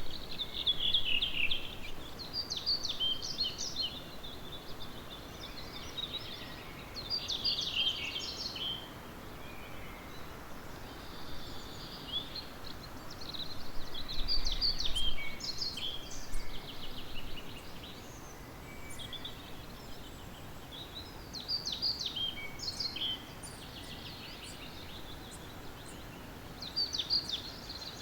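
Early-morning chorus of songbirds: short, quick song phrases repeat every few seconds, with a loud phrase near the start, another about halfway through and one near the end, over a steady background hiss.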